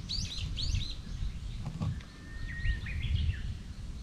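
Wild birds singing: a run of quick, repeated downward-sweeping notes in the first second, then a single held whistle and a short rising phrase around the middle. A low rumble of wind on the microphone runs underneath.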